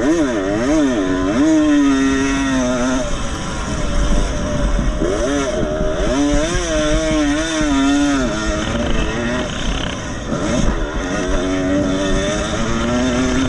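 Motocross motorcycle engines revving hard on a race track. The engine pitch climbs and drops again and again with throttle and gear changes, louder in the first half and again near the end.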